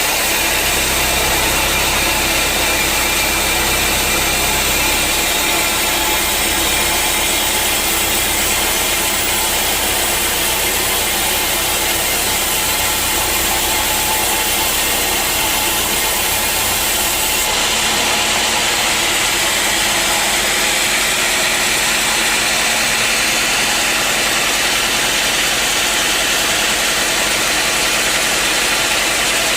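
Sawmill machinery running steadily: a continuous engine drone with saw noise over it, with a slight change in its sound a little past halfway.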